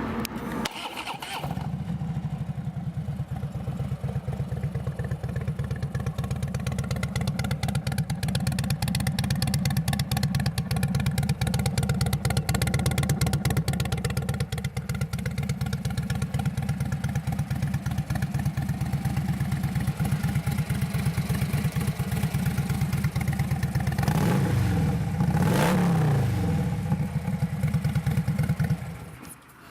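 2016 Harley-Davidson Dyna Switchback's fuel-injected 103-cubic-inch V-twin comes in about a second and a half in and runs at a steady idle through its 2-into-1 chrome exhaust. The exhaust has a bassy tone that the dealer puts down to a removed baffle. Near the end the throttle is blipped, the revs rising and falling once before settling, and the engine sound then cuts off.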